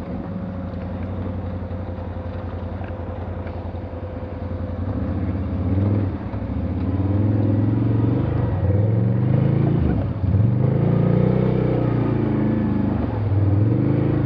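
Off-road vehicle engine working through mud and ruts, its revs rising and falling again and again as the throttle is worked.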